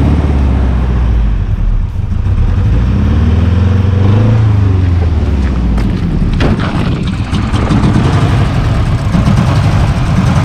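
Nissan S14's turbocharged SR20 four-cylinder engine running rough on a misfire. It is revved up and back down near the middle, then runs unevenly. The misfire is cylinder number 3 not firing, put down to a fouled spark plug.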